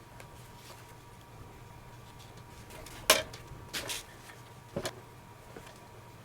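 Hand-work noises on a baseball glove being relaced: a sharp tap about three seconds in, a brief scrape just after, and another tap near five seconds, over a low steady hum.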